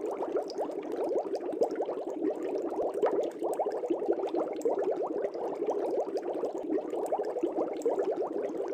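Aquarium air bubbles rising and breaking at the water surface in a fish tank: a steady, dense bubbling made of many small bubble blips.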